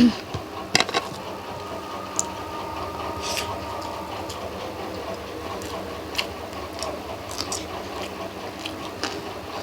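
Steady whir of an electric fan running in the room, with scattered small clicks and smacks of someone eating rice and fried greens by hand.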